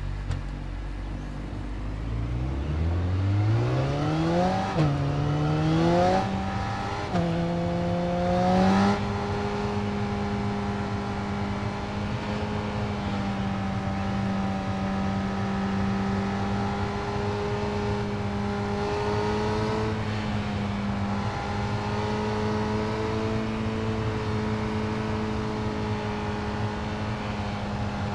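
Yamaha R6 inline-four engine through an Akrapovic exhaust, starting at a low idle, then revving up in rising steps with two brief drops in pitch about 5 and 7 seconds in. From about 9 seconds on it holds a steady high rev.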